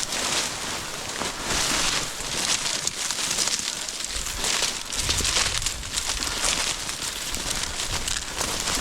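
Crunching, rustling footsteps pushing through fresh snow and dry cattails, in an uneven walking rhythm.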